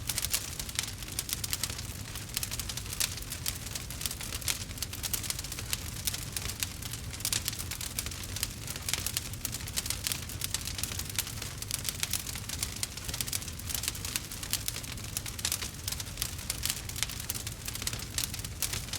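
Burning wood crackling and popping without pause: many small, irregular snaps each second over a low, steady background.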